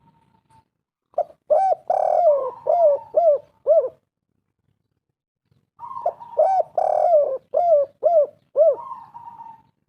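Spotted dove (tekukur) cooing: two phrases of several short rising-and-falling coos with one longer, drawn-out note in each, separated by about two seconds of silence.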